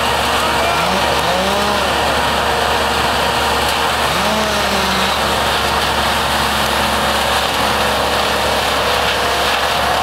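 Gas-powered tree-service equipment running: a loud, steady rushing noise, with an engine's pitch rising and falling a few times, most clearly about a second in and again about four seconds in.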